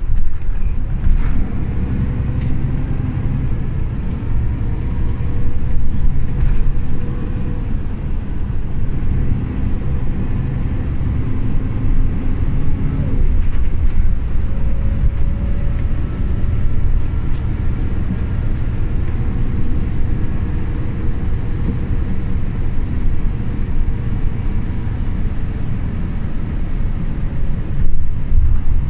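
Scania OmniLink CL94UB city bus under way, its engine running with a steady low rumble. The engine note shifts in pitch a couple of times as the bus changes speed, and short rattles and clicks come from the body.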